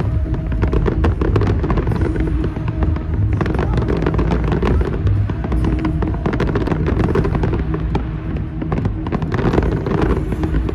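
Fireworks bursting and crackling in rapid succession over loud music with heavy bass.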